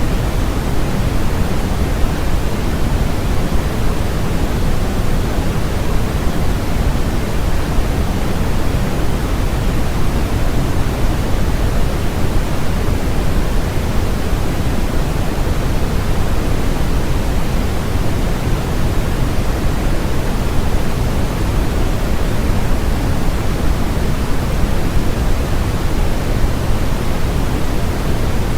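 Steady synthetic noise played as a white noise track: an even, unchanging hiss with more weight in the low end than the high.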